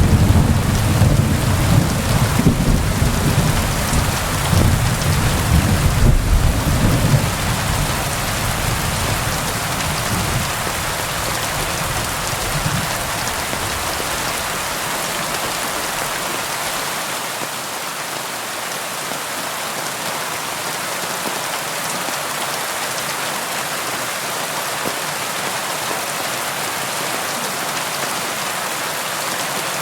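Steady rain with a low rumble of thunder that fades away over the first half, leaving only the even hiss of the rain.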